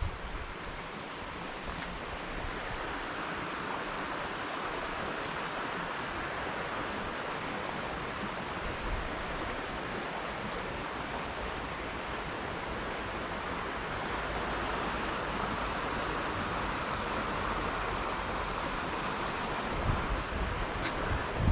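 Steady rushing outdoor noise, with faint short high chirps now and then.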